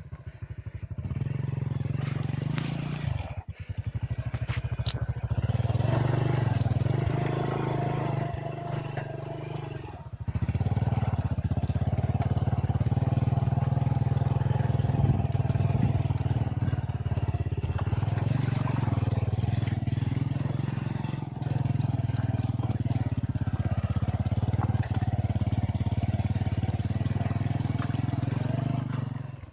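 Motorcycle engine running at low speed, easing off briefly twice in the first ten seconds, then pulling steadily.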